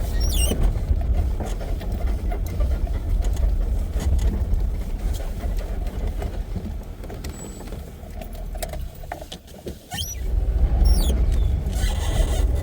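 Safari vehicle driving on a forest track: a steady low engine and road rumble that eases off about nine seconds in and then picks up again.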